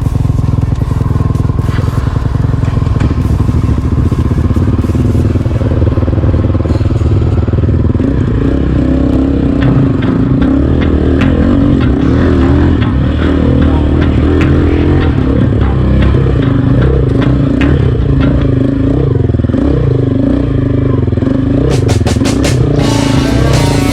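Trail motorcycle engine running, its pitch rising and falling as the throttle is worked, with many sharp clicks and knocks over it.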